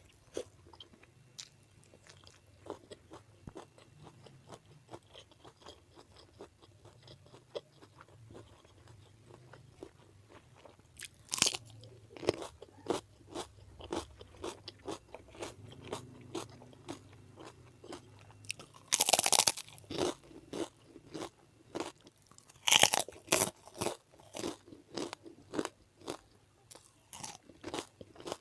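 Close-miked chewing, a steady wet rhythm of about two chews a second, faint at first and louder later, with loud crunchy bites about eleven seconds in, again around nineteen seconds, and again at twenty-three.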